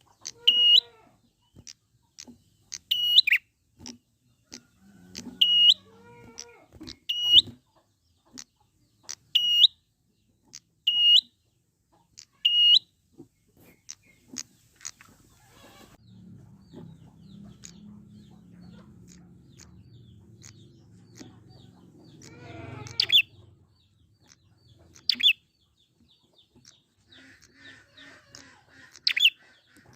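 Wild prinia (prenjak) calling: short, sharp, high call notes repeated every second or two, thinning out past the middle to a few calls near the end. A low rumble runs underneath for several seconds in the middle.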